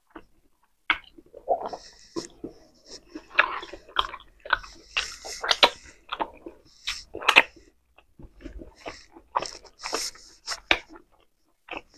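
Close-miked chewing of pork steak: irregular wet smacks and clicks of lips and mouth as a person eats a piece of meat by hand.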